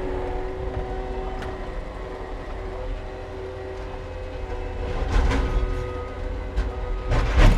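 Heavy equipment's engine running steadily with a constant hum, and two louder rushing surges about five and seven seconds in.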